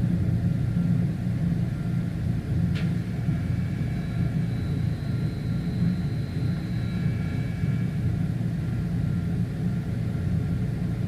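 Steady low rumble of running diesel generator sets in a ship's engine room, with a single sharp click about three seconds in and a faint high whine for a few seconds in the middle.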